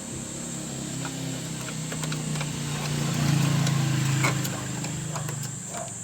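A vehicle engine hum that swells to its loudest about three to four seconds in and then fades away, with scattered light clicks.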